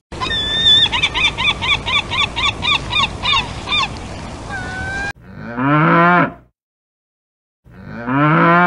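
Cow mooing twice, two long low calls with a short gap between them. Before them, for about five seconds, an animal makes rapid short calls, about three a second, over a noisy background.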